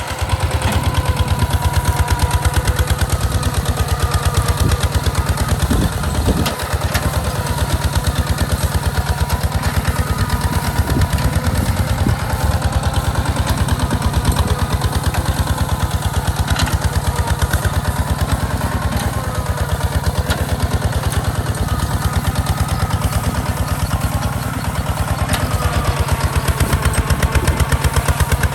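Hinota HG Gold 155 DI tractor's direct-injection diesel engine running steadily while plowing, with a rapid, even chug of firing pulses.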